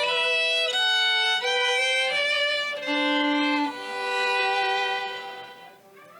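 Solo violin playing a slow melody of held notes, the last note fading out near the end.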